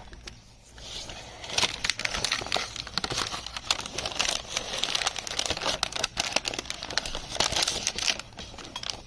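Protective paper film being peeled off a plexiglass panel, crinkling and crackling continuously from about a second and a half in.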